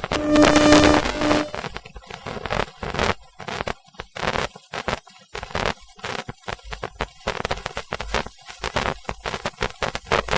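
Siemens SIBAS 32 IGBT traction inverter of a Class 450 Desiro, picked up electromagnetically by an induction coil. A steady electric tone runs for about the first second and a half and then cuts out. After that come irregular crackling bursts and dropouts as the inverter gains and loses power through poor third-rail contact.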